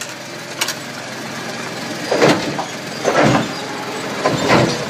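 Volkswagen Polo 1.2 litre three-cylinder petrol engine (code AWY) running, with three short louder surges about a second apart, like brief revs. There are two light clicks near the start.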